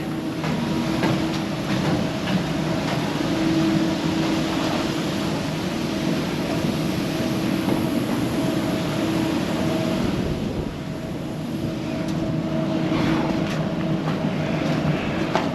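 Steady machinery drone aboard a lake freighter being loaded: a constant low hum with a held pitch over a rushing hiss, with a few faint knocks.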